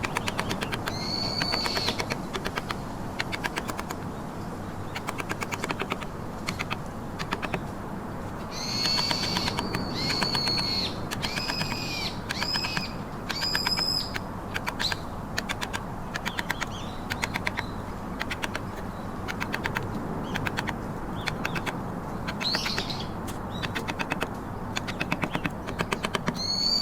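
Rapid, steady tapping of a mallet driving a carving chisel into trembesi wood, several strikes a second. High chirping bird calls come and go over it, most often a third of the way in and near the end.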